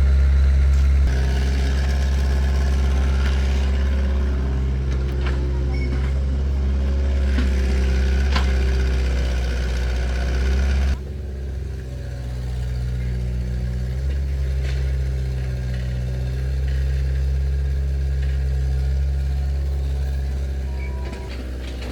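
An engine running steadily, with a few light knocks over it; about eleven seconds in the sound changes suddenly to a slightly quieter, lower engine note.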